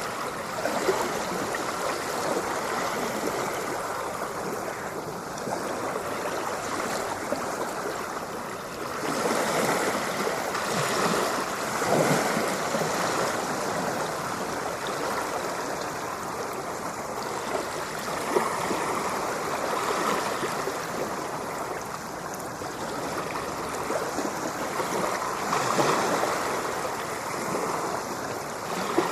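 Ocean waves washing on a shore, a continuous rush of water that swells and eases every several seconds.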